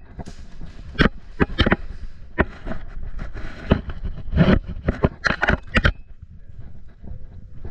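Airsoft guns firing during a game: irregular sharp cracks, single shots and short rapid bursts, with the densest burst about five to six seconds in.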